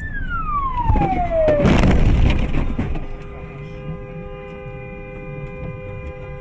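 Emergency-vehicle siren wailing, its pitch falling steadily, cut off by a loud burst of rough noise about a second and a half in. From about three seconds in comes a steady, held tone of several pitches at once.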